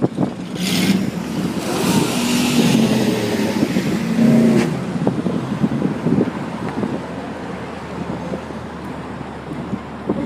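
A car engine running, louder over the first few seconds and then settling to a steadier, quieter running.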